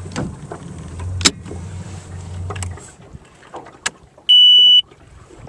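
Mercury 150 hp FourStroke outboard idling with a low hum that stops a little under three seconds in as the engine is shut off. After a few clicks comes a single loud, high electronic beep lasting about half a second: the engine's warning horn giving its self-test beep as the key is switched on for a restart.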